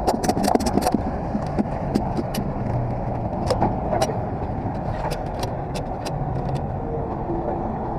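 Truck driving down the road: a steady low engine and road rumble, with frequent sharp clicks and rattles.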